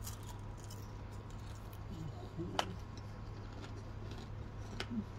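Crunching and chewing of a hard, brittle slab of caramel popcorn, faint and scattered, with one sharper crack about two and a half seconds in.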